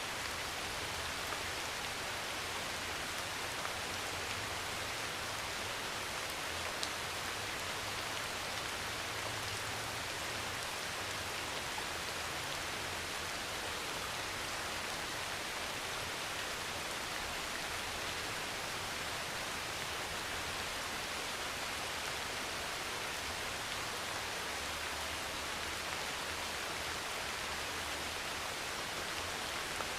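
Heavy rain pouring steadily on a metal roof, with a faint low rumble underneath at the start and again near the end.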